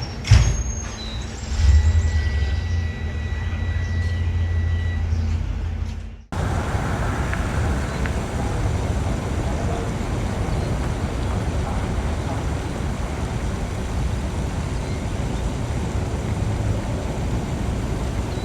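Road traffic noise: a heavy vehicle's engine rumbling low for a few seconds, then, after a sudden cut, a steady wash of passing-traffic and street noise.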